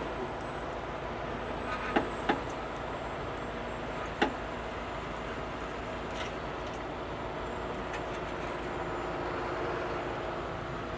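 Steady motor-vehicle drone from engines and traffic, with three sharp knocks: two close together about two seconds in and one about four seconds in.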